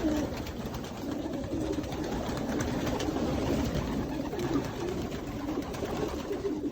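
Young racing pigeons cooing together in a loft, many calls overlapping without a break.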